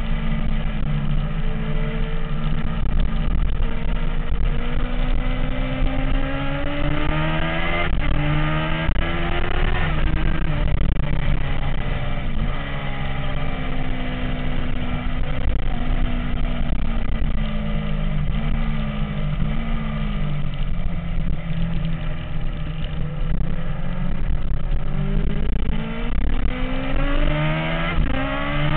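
MV Agusta F4's inline-four engine running under way, its pitch climbing in several surges and falling away in steps between them, with a steady rush of noise underneath.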